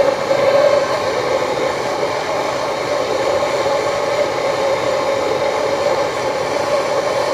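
Gas torch flame burning with a steady, loud rushing hiss, heating a seized bolt to free it.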